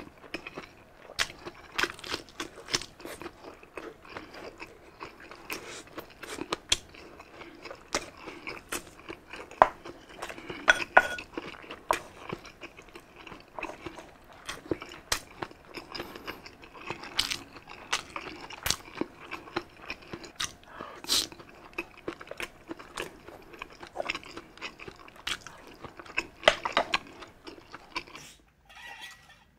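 Close-miked chewing and crunching of grilled Hungarian sausage and pork sisig, with many sharp, irregular mouth clicks and crunches. It quiets down near the end.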